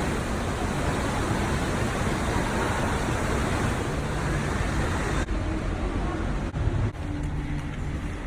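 Steady rushing background noise that changes in character abruptly about five seconds in.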